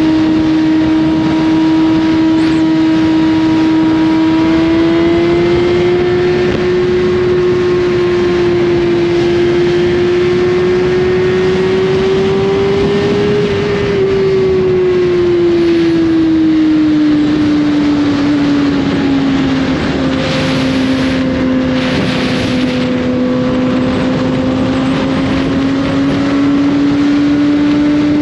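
2021 Suzuki GSX-R1000's inline-four through an Austin Racing slip-on exhaust, running at steady cruising revs under way. The pitch rises slowly, drops off about halfway through as the throttle eases, then climbs gently again.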